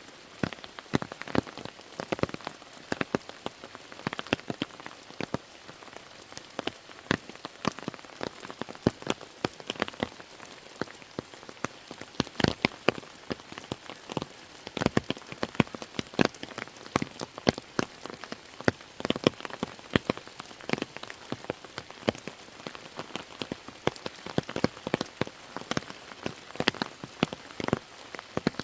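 Steady rain, with many separate drops striking close by in an irregular patter over a constant hiss.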